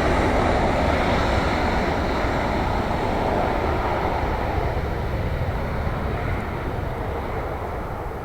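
Jet airliner engine noise, a broad rushing sound that slowly fades as the plane moves away from the runway.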